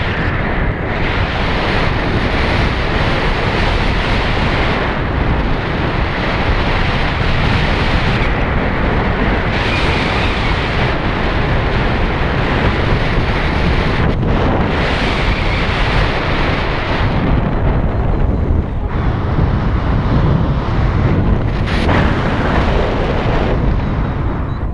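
Steady, loud wind noise buffeting the microphone, as from riding a motorcycle at speed.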